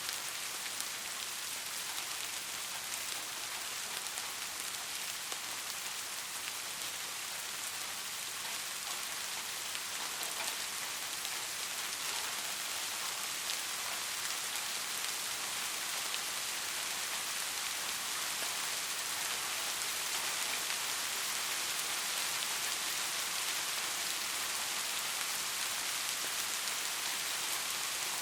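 Steady rain falling on a surface, an even hiss of many small drops with faint individual patters; it grows a little louder about halfway through.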